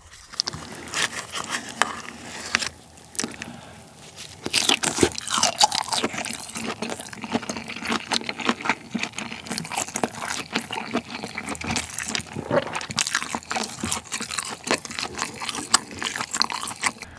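Close-miked chewing of boiled lobster claw meat dipped in sauce: a dense run of small wet clicks and mouth smacks, louder from about four seconds in.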